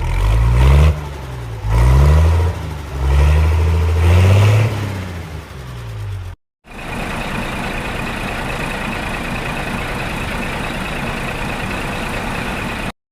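A vehicle engine revving up and down about three times, then after a short break a steady, even running noise with a faint high whine.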